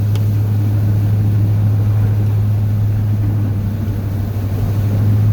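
Steady low drone of a Chevrolet pickup's 8.1-litre Vortec big-block V8 while the truck is driving along.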